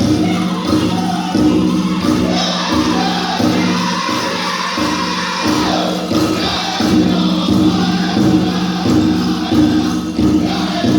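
Powwow drum group: several singers chanting together over a big drum struck in a steady, even beat.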